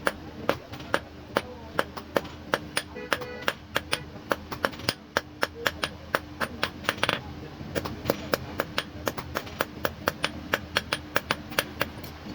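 A blacksmith's hand hammer striking steel on an anvil in a steady run of ringing blows, about three a second, while a fishing spear is forged.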